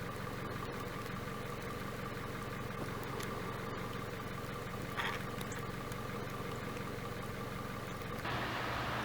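A steady engine-like hum holding several fixed tones, with a brief higher sound about five seconds in; near the end it becomes louder and fuller.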